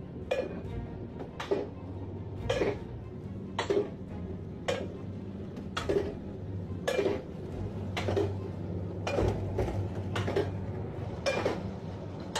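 A series of sharp clattering knocks, irregular, roughly one or two a second, over a steady low hum.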